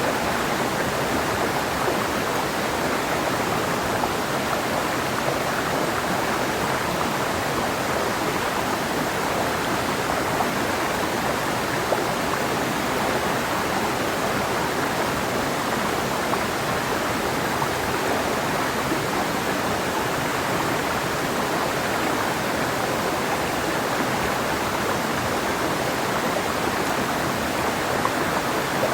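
Mountain river flowing over rocks: a steady rushing of water, even throughout.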